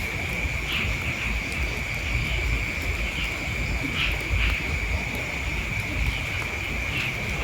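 Steady, high-pitched chorus of night insects such as crickets, with a low rumble on the microphone underneath.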